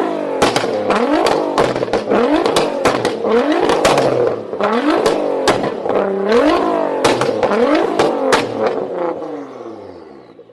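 Turbocharged car engine revved hard again and again, its pitch rising and falling about once a second with sharp pops near each peak, then dying away near the end.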